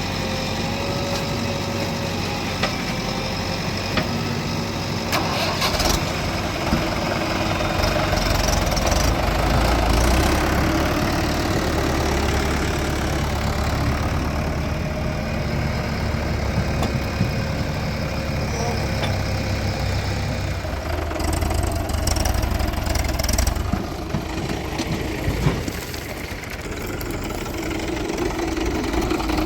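Diesel engines of a JCB 3DX backhoe loader and farm tractors running under load during mud loading, the low engine note swelling about ten seconds in, with a few sharp knocks near the start.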